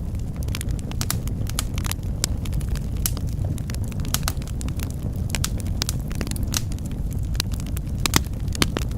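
Wood fire crackling in a fireplace: a steady low rumble of flames under frequent sharp pops and snaps, with one louder pop about eight seconds in.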